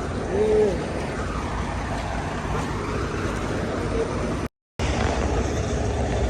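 Steady low rumble of a vehicle engine running, with a short vocal sound near the start. The sound cuts out completely for a moment about four and a half seconds in.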